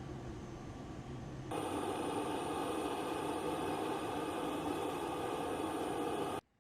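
Steady drone of aircraft engines with a few steady tones in it, stepping up louder about a second and a half in, then cutting off abruptly near the end.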